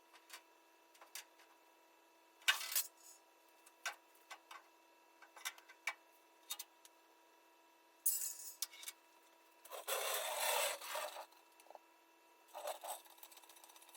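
Scattered clicks and knocks with a few short scraping sounds, and a longer, louder scrape about ten seconds in: tools and metal parts being handled during measuring and fitting work.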